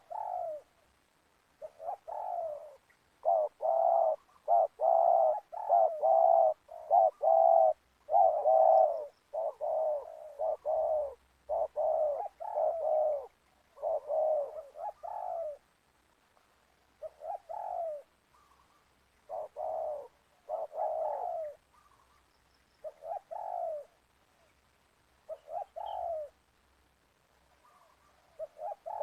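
Spotted doves cooing over and over, a dense run of coo phrases for the first half, then shorter phrases with pauses between them.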